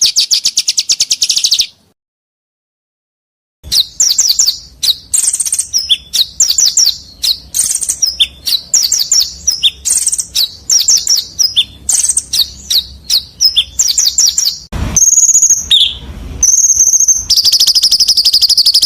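Small songbirds' rapid-fire chirps and trills from an edited bird-song training recording ('masteran'). A fast, high trill breaks off about two seconds in and drops to dead silence for about two seconds. Then comes a quick run of sharp repeated chirps and short trills, a few different whistled notes, and a long unbroken fast trill near the end.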